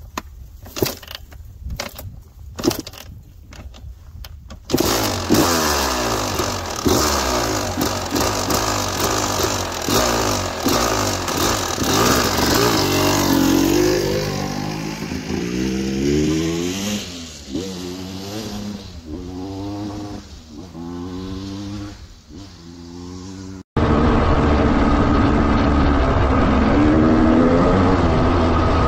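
Honda CR250 two-stroke dirt bike engine, bored out to 310cc: a few sharp knocks as it is kicked over, then it catches about five seconds in and is revved up and down again and again. From about 24 s on it runs loud and steady while the bike is ridden.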